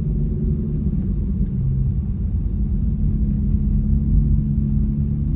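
Car engine running steadily at low revs, a continuous low drone with no revving.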